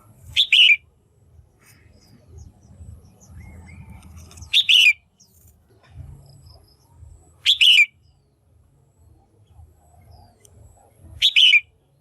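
Female red-whiskered bulbul calling: four short, loud calls a few seconds apart. It is the kind of female call used to rouse male bulbuls or to pair birds.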